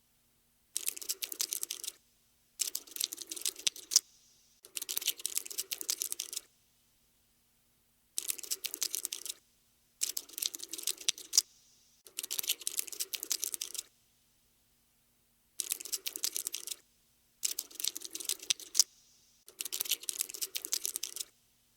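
Cockroach scuttling sound effect: bursts of rapid, dense little clicks, like tiny legs skittering, about nine spurts of one to two seconds each with short silent gaps between.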